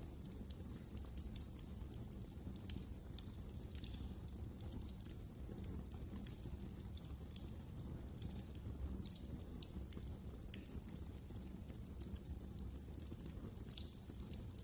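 Wood fire burning in a fireplace: irregular crackles and snaps over a low, steady rumble.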